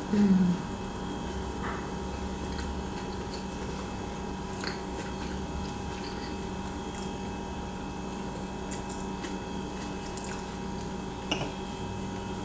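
Close-miked chewing of a corn dog, with faint wet mouth sounds and a few small clicks. It opens with a short, falling 'mmm' of enjoyment, over a steady electrical hum.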